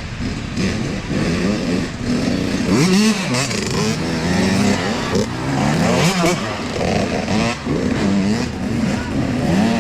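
Several youth dirt bike engines revving, overlapping, their pitch rising and falling repeatedly with throttle and gear changes.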